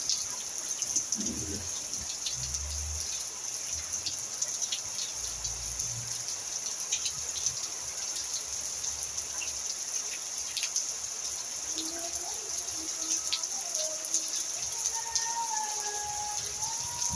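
Steady rain falling on a roof and wet paved ground: an even, dense hiss with scattered drop ticks. Faint wavering tones come in over the last few seconds.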